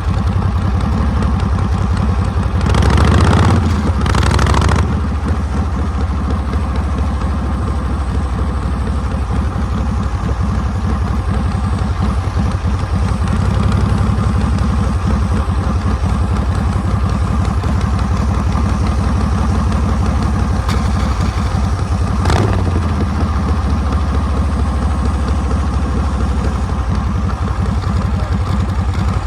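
Harley-Davidson Panhead V-twin engine running steadily, heard from the back of the bike. It picks up with two short bursts of throttle near the start and gives one brief sharp sound about three quarters of the way through.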